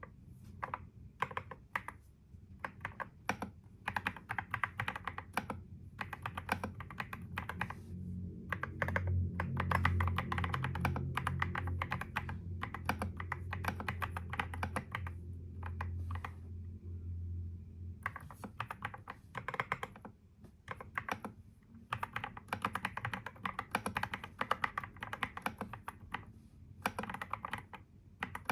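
Fast continuous typing on a computer keyboard, rapid key clicks with a brief pause a little past the middle. A low steady hum sits underneath for several seconds in the middle.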